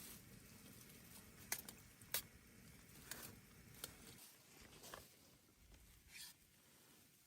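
Near silence broken by a few faint, scattered clicks and taps, about six of them, the sharpest two close together about a second and a half to two seconds in.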